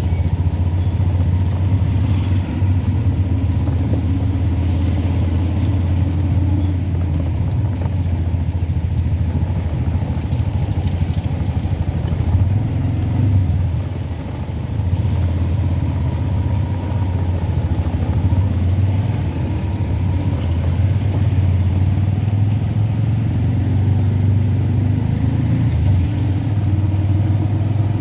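Car driving: a steady low rumble of engine and road noise, easing briefly about halfway through.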